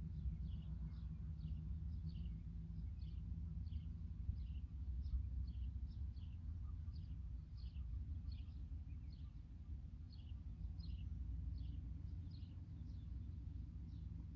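A small bird chirping over and over, about two short high chirps a second, over a steady low outdoor rumble.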